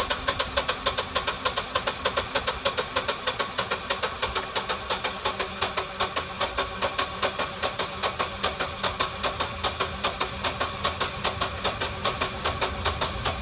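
Generac 16 kW standby generator's air-cooled V-twin engine being cranked over by its electric starter, an even chugging of about four compression pulses a second. It keeps cranking without catching or speeding up.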